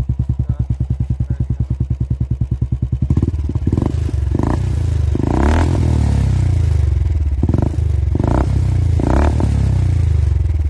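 Engine with a very loud exhaust idling with an even pulsing beat, then from about three seconds in revved several times, each rev rising and falling, before settling back to idle near the end.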